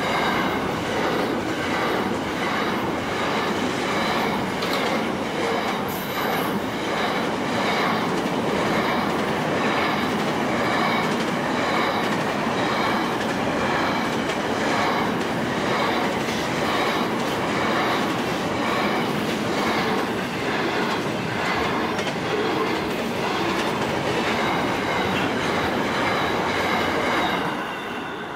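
Double-stacked container wagons of a long freight train rolling past at close range: a steady rumble and clatter of steel wheels on the rail. It fades away near the end as the last wagon goes by.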